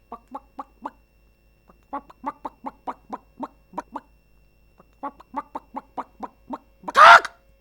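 Clucking sound effect: short clucks in quick runs of about four a second, then one louder, longer call about seven seconds in.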